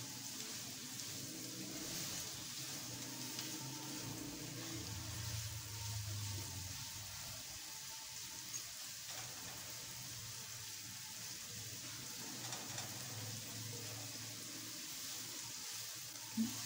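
Thin slices of bitter gourd (karela) shallow-frying in hot oil in a non-stick kadhai: a quiet, steady sizzle.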